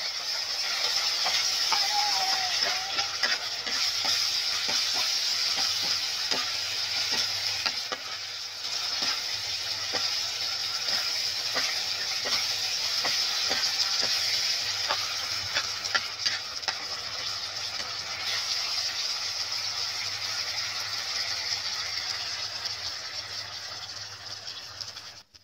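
Meatballs frying in a bubbling sauce in a pan on a gas burner, sizzling steadily, with metal tongs clicking and scraping against the pan as they are stirred.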